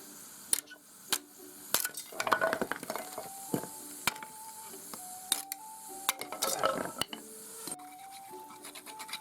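Knife shaving and cutting a piece of wood to make chopsticks: sharp clicks and short scraping strokes, busiest in the middle. A soft melody of background music plays underneath.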